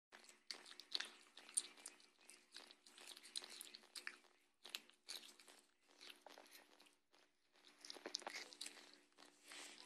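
Faint crunching and chewing: a pet eating turkey, with irregular wet clicks and a short pause about two-thirds of the way through.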